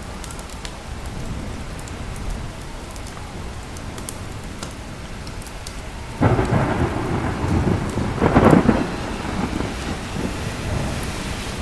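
Steady rain with thunder: a loud crack of thunder breaks in about halfway through, swells to a second peak and rumbles on to the end.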